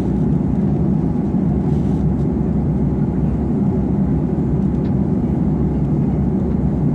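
Steady low rumble of an Airbus A330 airliner in cruise, heard from the cabin: engine and airflow noise.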